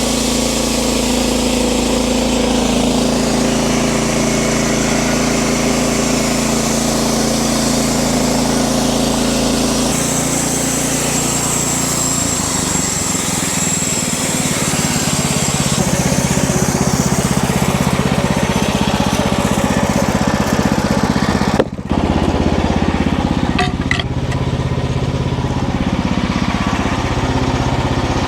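Wood-Mizer LX50 Super band sawmill's small gas engine running steadily, with the band blade sawing through a log. Its pitch shifts about ten seconds in, and there is a brief dropout a little past twenty seconds.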